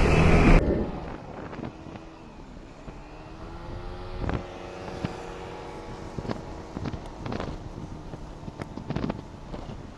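Loud wind and road noise cuts off sharply under a second in. Then a motorbike engine runs low and even at low speed, with a few sharp taps scattered through.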